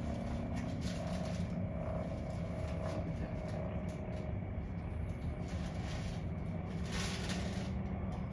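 Freight train cars rolling past: a steady low rumble of wheels on the rails, with a brief louder hiss about seven seconds in.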